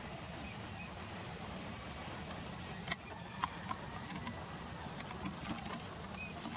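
Steady low outdoor rumble of river and distant traffic noise, with a few sharp clicks and one faint short whistled call near the end, which the observer takes for a Eurasian teal.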